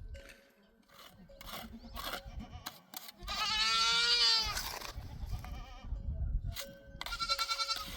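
A goat bleating: one long wavering call about three seconds in, and a shorter quavering call near the end, with scattered knocks and clicks between.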